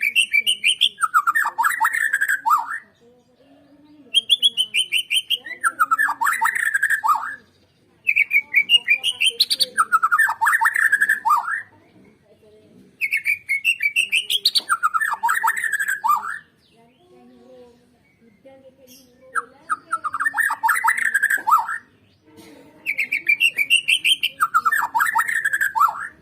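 White-rumped shama (Borneo murai batu) singing the same loud song phrase six times, each about three seconds long with a pause of about a second between: a rising high opening followed by a fast, lower run of notes.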